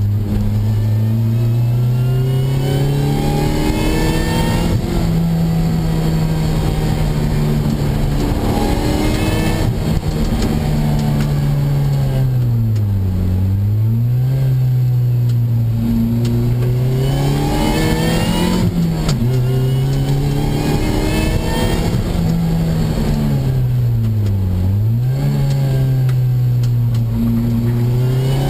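Opel Speedster's engine heard from inside the cabin, lapping a circuit: it revs up through the gears with sharp pitch drops at the upshifts, then falls away under braking and climbs again out of the corners, several times over, with tyre and wind noise underneath.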